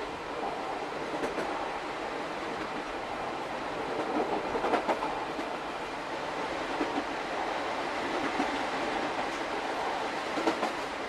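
Old-type passenger coach running behind an electric locomotive on jointed rail, heard at the car's end: a steady rolling rumble with wheel clicks over the rail joints every second or two, a cluster of them about four to five seconds in. The train is coasting downhill, so the locomotive's traction motors are barely heard.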